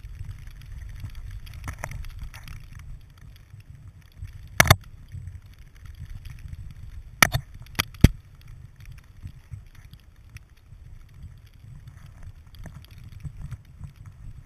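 Low, steady rumble of wind and movement noise on a GoPro Hero 2 camera, with sharp knocks on the camera or its housing: a quick double knock about four and a half seconds in, then three more between about seven and eight seconds.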